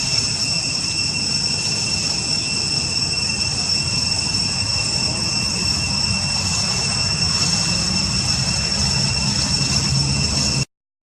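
Steady outdoor background: a constant high-pitched whine at several pitches over a low rumble, like passing traffic. The sound cuts out completely for a moment near the end.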